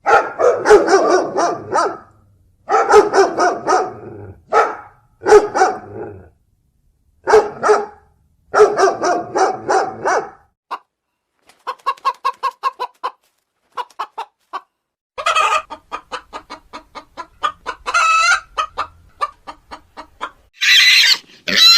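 Chickens clucking and cackling in groups of rapid, loud calls, followed by softer, quicker clucks in the second half and a higher call near the end.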